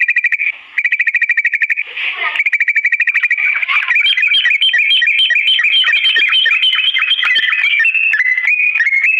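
Yellow-vented bulbul song: rapid trills of even notes broken by short pauses, with a brief harsher call about 2 seconds in. From about 4 seconds in comes a faster run of clear notes jumping between two or three pitches.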